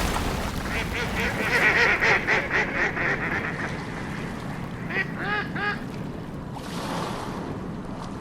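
Ducks calling: a quick run of short calls in the first few seconds, then three short calls that rise and fall about five seconds in.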